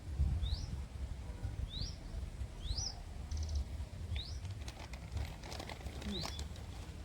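A small bird calling: five short, high, upward-sweeping chirps about a second or two apart, with one brief buzzy rattle in the middle, over a low rumble.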